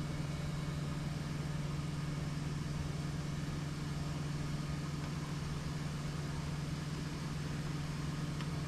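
A steady low mechanical hum, even in pitch and level, with a faint click near the end.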